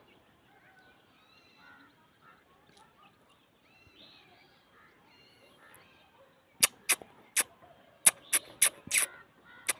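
Faint, short bird calls over a quiet background. About two-thirds of the way in, a run of about ten sharp, loud clicks or knocks begins, irregularly spaced.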